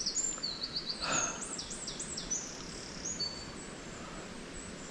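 A small songbird singing a quick run of high chirps and trills, over a steady outdoor hiss. The song tails off after about three seconds.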